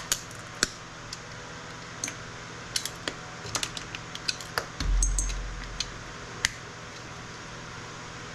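Sharp clicks and clinks of aluminium electrolytic capacitors being pried off a circuit board and dropped among other scrap parts, with a low thump about five seconds in.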